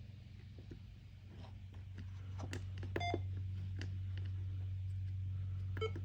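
Short electronic beeps from a Kenwood TM-D710A transceiver's control head, one about halfway through and another near the end, with a few small clicks between them. Under them runs a steady low hum that grows louder about two seconds in.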